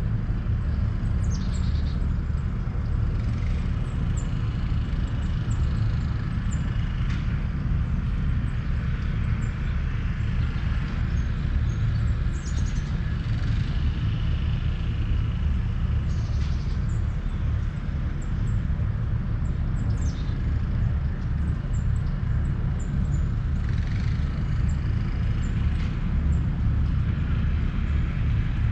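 Outdoor ambience: a steady low rumble with birds chirping and calling now and then.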